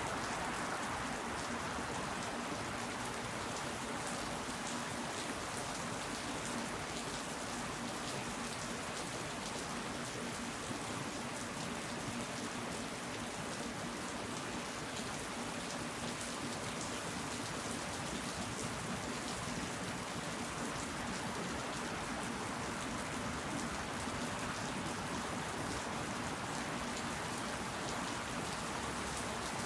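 Steady rain falling on leaves and surfaces, an even hiss of many small drop patters with no thunder.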